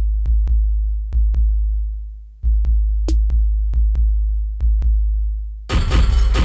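Instrumental electronic beat. A stripped-down passage of long, deep, decaying bass-drum notes with sparse ticking percussion gives way to the full, dense beat about five and a half seconds in.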